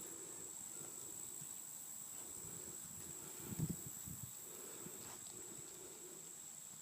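Faint, quiet background with a steady high-pitched tone and a few soft thuds a little past halfway.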